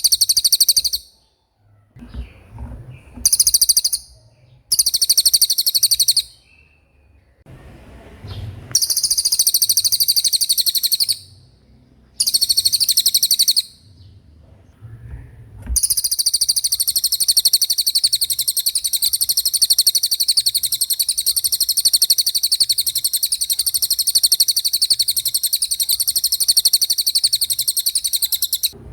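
Cililin songbird singing its fast rolling trill: high, rapid trills in bursts of a second or two, then one long unbroken trill from about halfway through to near the end.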